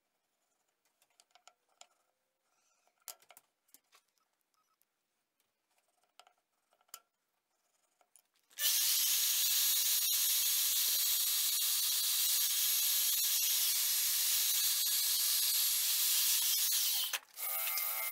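Faint scattered clicks and taps, then about halfway through a loud, steady hiss starts abruptly, runs for about eight seconds and cuts off near the end.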